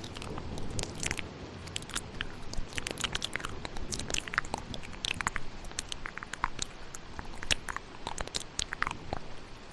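Layered ASMR mouth sounds: many quick wet clicks and smacks close to the microphone, scattered irregularly, over a steady bed of thunderstorm rain noise.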